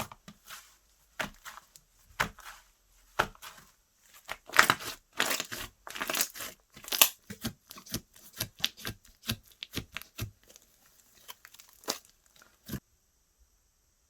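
Slime being pressed, stretched and folded by hand close to the microphone: a run of sharp pops, clicks and crackles, densest a few seconds in, stopping shortly before the end.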